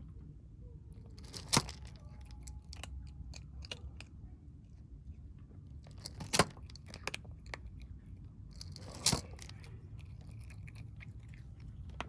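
Stray kittens eating, a run of many small chewing clicks with three much louder sharp clicks spread through.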